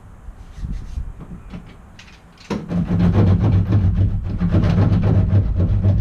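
Faint knocks and clicks, then about two and a half seconds in a loud, steady low mechanical hum with rattling starts abruptly and keeps going.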